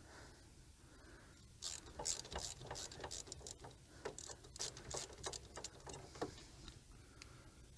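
Ratchet wrench clicking in quick, uneven runs of light ticks, starting about a second and a half in and stopping near the end, as a 13 mm hub bearing bolt is backed out.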